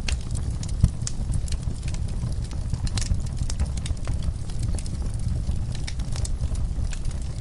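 Wood fire crackling in a fireplace: irregular sharp pops and snaps over a steady low rumble, with one louder knock just under a second in.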